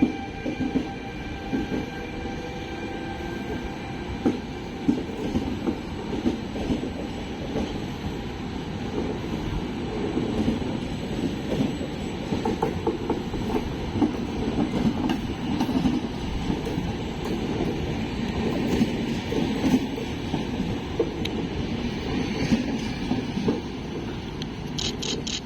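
Train made up of an E464 electric locomotive and Vivalto double-deck coaches rolling past, a steady rumble of wheels on rails with irregular clicks and knocks from the wheels over the rail joints.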